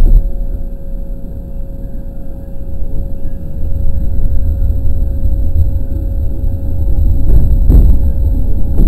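207 series electric train heard from the driver's cab as it pulls away from a station, a low running rumble that grows louder as it gathers speed. A steady tone runs under it, and a few sharp knocks come near the end.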